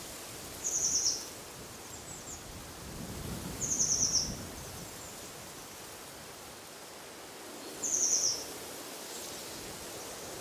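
A small songbird gives a short, high, rapid trill three times, a few seconds apart, over a steady rush of wind through trees with a low gust partway through.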